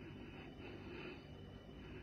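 Faint steady background hiss of room tone, with no distinct sound event.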